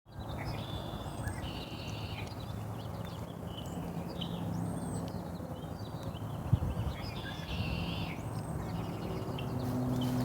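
A songbird singing in short, repeated, varied phrases over a steady low hum and background noise, with a single sharp knock about six and a half seconds in.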